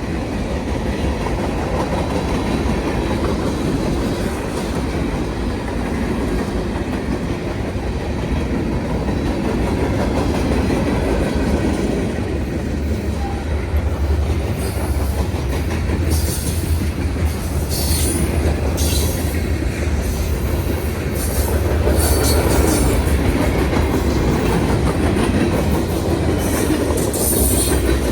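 Norfolk Southern freight train's cars rolling past at a crossing, a steady rumble with wheels clacking over the rail joints. In the second half, brief high-pitched wheel squeals cut in now and then.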